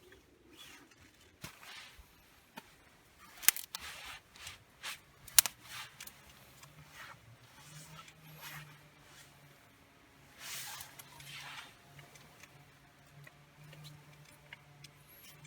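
Hands handling fire-starting materials: scattered rustling with two sharp clicks, about a second apart, that are the loudest sounds, and a longer rustle near the two-thirds mark.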